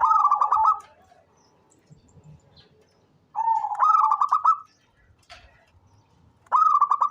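Zebra dove (perkutut) cooing: three short, rolling, trilled phrases about three seconds apart.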